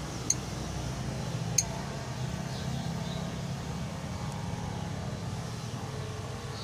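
Lovebird giving two brief, sharp, high chirps about a second apart over a steady low hum.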